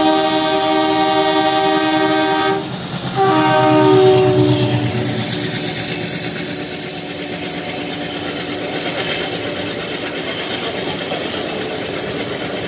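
Train horn sounding in two long blasts, the first breaking off about two and a half seconds in and the second fading out a couple of seconds later. Then the steady rumble and clatter of a freight train of tank wagons passing on the adjacent track, heard from a moving train.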